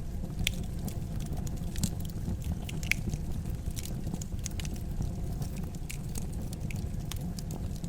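Wood fire burning in a fireplace: a low steady rumble of the flames with irregular sharp crackles and pops, a few louder snaps among them.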